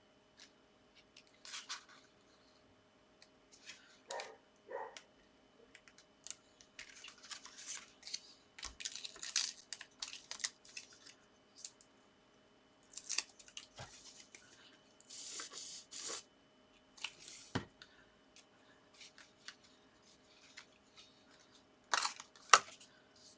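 Paper and card being handled on a crafting table: intermittent rustling, short scraping and snipping sounds and a few light taps, as sentiment pieces are cut and positioned on a handmade card.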